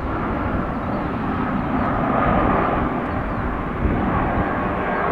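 Jet airliner engines running, a steady rushing noise with low rumble.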